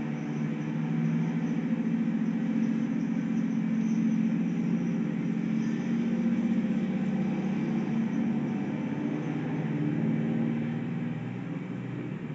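Freight train cars rolling past: a steady low rumble of wheels on the rails that eases off near the end.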